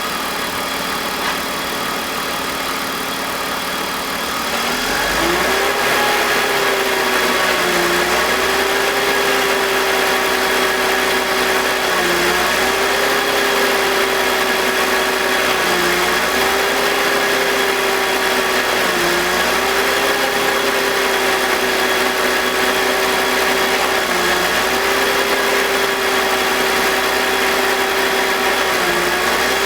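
BMW M52TU 2.5-litre straight-six idling with its VANOS connected, the owner suspecting the VANOS of a grinding noise and idle drops. About four seconds in, the sound gets louder and a steady tone steps up in pitch, then it sags briefly every few seconds, matching the idle drops.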